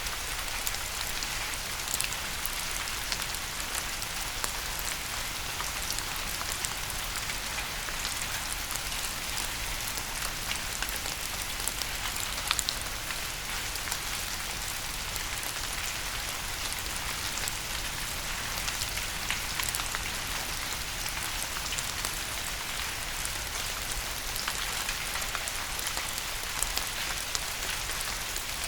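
Steady rain falling on a surface: an even hiss, with scattered sharper taps of single drops ticking through it.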